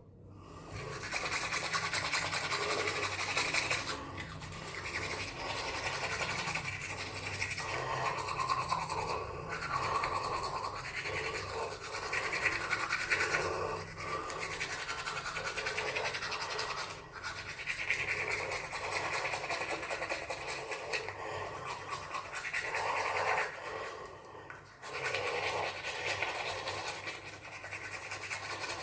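Scratchy brushing and rubbing strokes in short runs, pausing briefly a few times, over a low steady hum.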